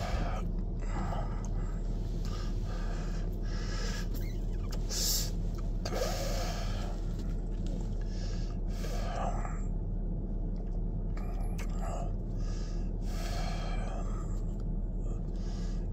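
Steady low hum of a car's engine heard inside the cabin, with a man breathing in and out audibly several times over it.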